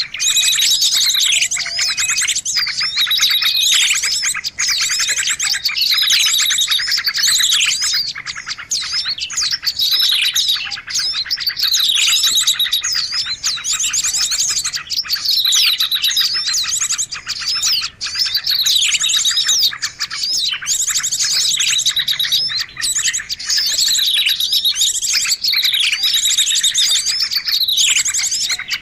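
A loud, busy chorus of small songbirds chirping and calling over one another, with quick falling calls recurring every couple of seconds. It is a bird-lure recording that mixes agitated small-bird calls to draw wild birds in.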